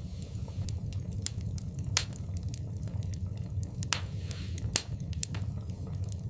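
Wood fire burning in a fireplace: irregular sharp crackles and pops over a steady low background, the loudest pops about two seconds in and just before five seconds, with a brief hiss shortly before the second.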